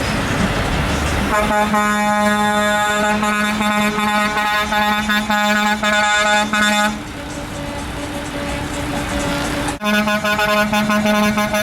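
Truck air horn blowing a long, steady, loud blast. About seven seconds in it gives way to a quieter, slightly higher tone. The full blast cuts back in abruptly near the end.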